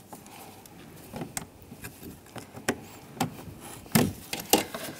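Scattered small plastic clicks and taps as door-panel wiring connectors are worked loose with a plastic trim tool, with a couple of louder knocks near the end.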